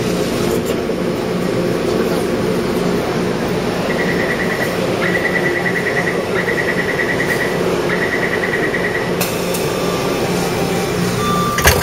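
Taipei Metro C301 train with its steady equipment hum, overlaid from about four to nine seconds in by rapid high electronic beeping in four short stretches, and a sharp knock near the end.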